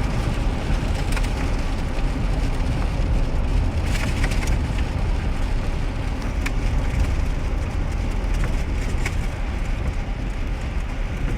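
Steady low rumble of a 2001 GMC Sierra pickup's engine and tyres on a wet road, heard from inside the cab, with scattered sharp ticks.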